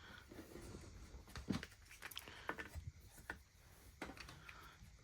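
Faint, scattered clicks and taps of hands handling the console's parts and a screwdriver, over quiet room tone.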